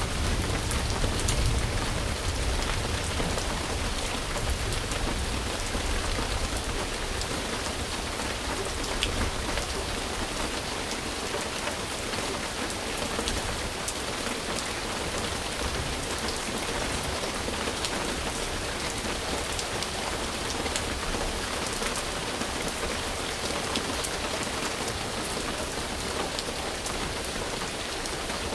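Steady rain falling, a continuous hiss with individual drops ticking through it. A low rumble underneath fades away over the first ten seconds or so.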